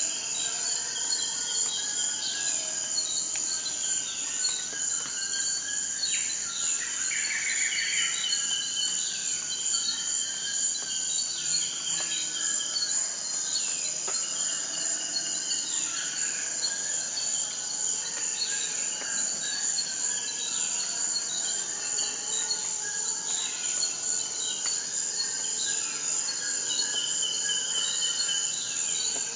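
Steady high-pitched insect chorus, a continuous shrill trill, with short falling bird chirps repeating every second or two.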